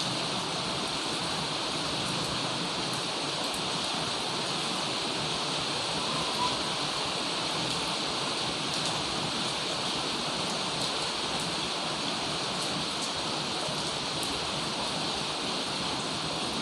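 Heavy rain pouring down steadily, a dense even hiss with scattered faint ticks of individual drops.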